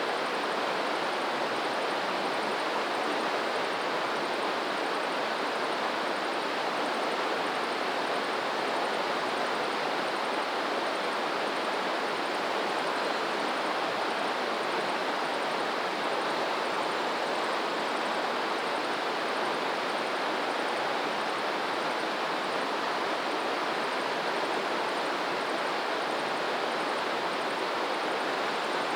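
Flowing water rushing steadily, an even hiss with no rise and fall.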